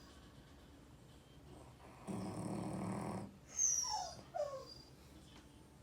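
A sleeping dog snoring once, a rattling breath about a second long, followed by two short dog whines, each falling in pitch.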